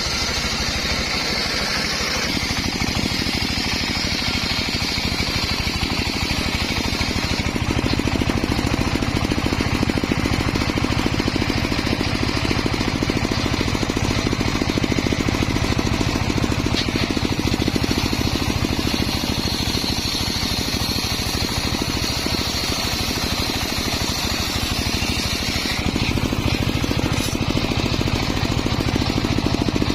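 Homemade circular sawmill running: its engine drones steadily with a fast pulsing. A high saw whine comes and goes as the blade cuts into the log, strong in the first several seconds and again through the second half.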